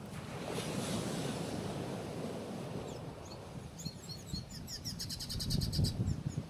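Small waves washing onto a rocky shore, with wind on the microphone as a steady rumble. From about three seconds in a bird calls over it: a few short chirps, then a fast high trill for about a second near the end.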